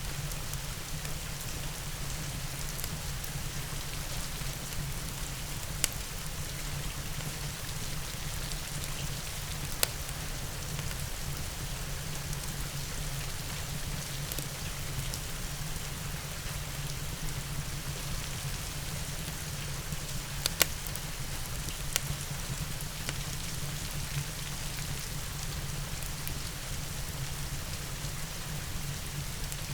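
Steady rain hiss mixed with a wood fire, a few sharp pops standing out from it, two of them close together about twenty seconds in.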